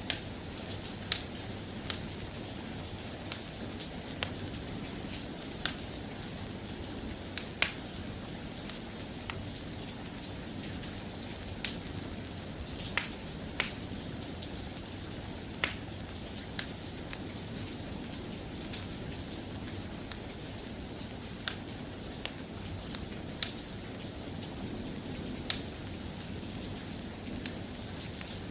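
Soft, steady rain, with sharp clicks scattered irregularly every second or two.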